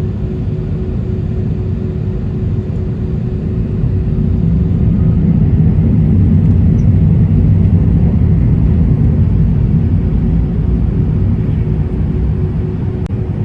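Airbus A320-232's IAE V2500 engines under takeoff power, heard inside the cabin: a loud, steady low rumble with a steady hum, swelling for a few seconds in the middle and easing off again.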